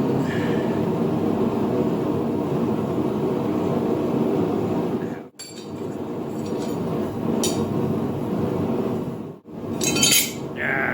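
A blacksmith's forge running with a steady roar, dropping out briefly twice, while steel clinks against metal in the second half, loudest near the end, as the hot bar is handled for twisting.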